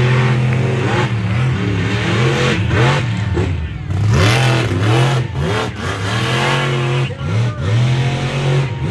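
Monster truck engines racing, their pitch repeatedly climbing and dropping as the throttle is opened and lifted.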